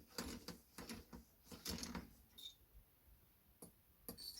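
Hand tools and small engine parts being handled: faint, irregular clicks and knocks, more of them in the first two seconds, with a brief high-pitched tone about two and a half seconds in.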